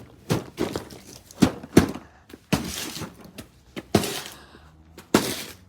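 A run of irregular knocks and thuds, a dozen or so sharp hits, with short scraping rustles between them about halfway through, as hard objects are handled and set down.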